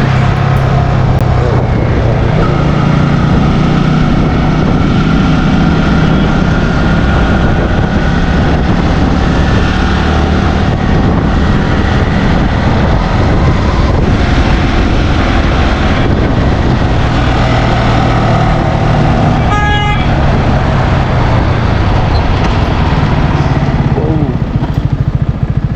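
Yamaha R15 motorcycle riding at speed on the highway: steady engine and road noise, with a short vehicle horn honk about twenty seconds in.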